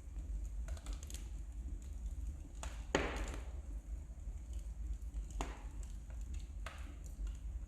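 Wood fire crackling in a fireplace: scattered sharp pops at irregular intervals, the loudest about three seconds in, over a steady low rumble.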